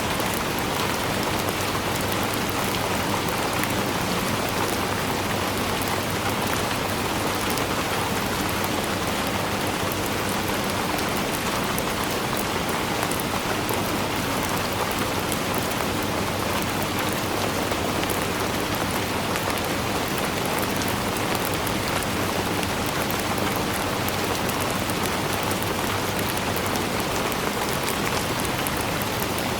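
Steady heavy rainfall: a dense, even patter of raindrops on surfaces, with no thunder or other events.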